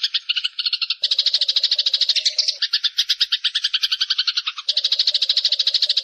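Eurasian tree sparrows chirping in a rapid, unbroken chatter of about ten chirps a second.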